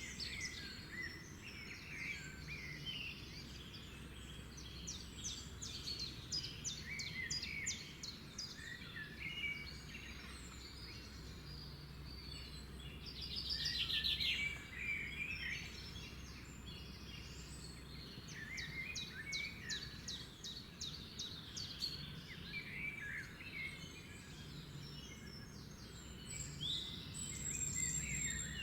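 Several songbirds singing and calling over one another: quick chirps and fast trills of repeated notes, the loudest run of rapid notes about halfway through. A steady low background rumble runs underneath.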